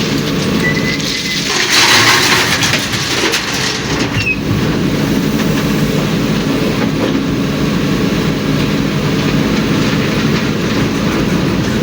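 Heavy diesel tipper truck running steadily on the move, with a rattling rumble. A louder rush of noise comes about two seconds in.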